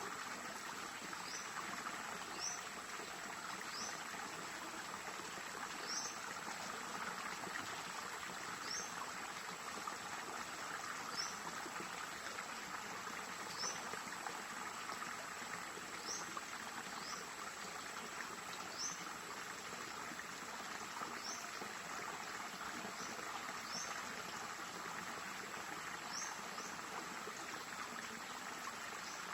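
Stream water flowing steadily, with short high chirps repeating about every two seconds.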